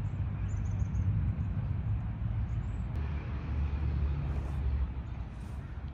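Outdoor background noise: a steady low rumble, with a few faint high chirps near the start.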